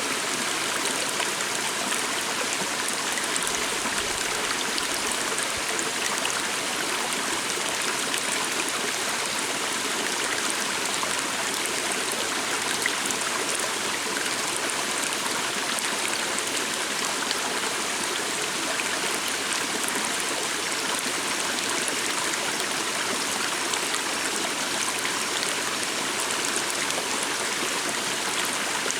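A small stream flowing steadily, its water rushing and splashing with an even, unbroken sound.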